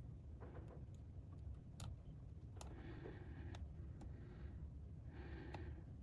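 Light, sharp clicks of small parts and tools being handled during laptop reassembly, about one a second, with two short muffled rustles, over a low steady hum.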